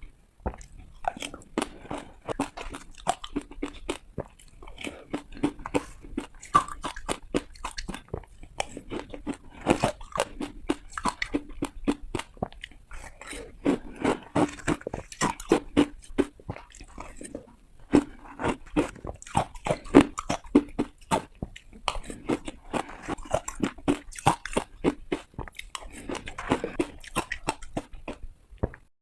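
Hard ice bitten and crunched between teeth close to the microphone: a rapid run of crisp cracks and crunches, coming in quick clusters with short pauses between bites.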